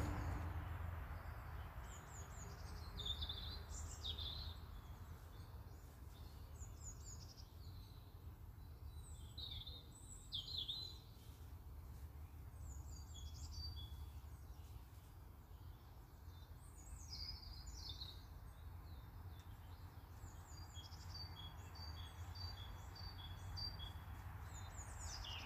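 Small garden birds chirping and singing in short, scattered phrases, faint, over a steady low rumble of background noise.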